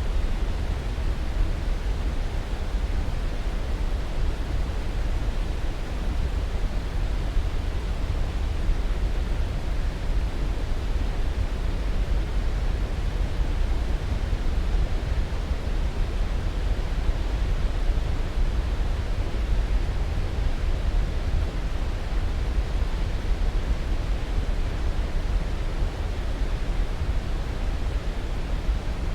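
Steady sleep-aid noise: an even, unchanging hiss with no events, heaviest in the deep end and thinning toward the top.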